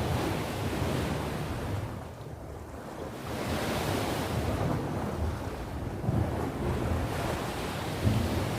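Sea waves breaking and washing onto the shore, the surf swelling and ebbing in long surges, with wind buffeting the microphone as a low rumble.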